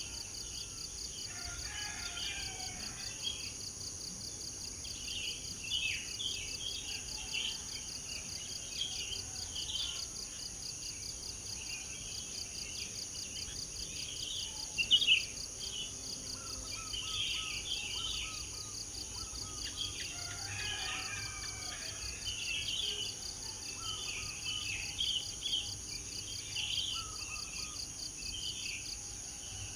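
Many birds chirping and singing in short, frequent calls over a steady high-pitched insect chorus with a fast pulsing buzz. One brief, louder sound about halfway through.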